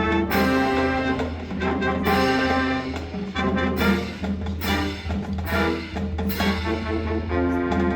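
High school marching band playing: brass holding sustained chords with accented hits about every second or so, over a steady low drum line.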